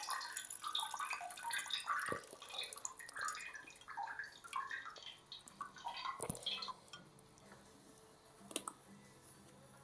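Faint, irregular dripping and trickling of used wash water draining out of a mini washing machine's drain, dying away about two-thirds of the way through as the tub empties; a single faint tick follows near the end.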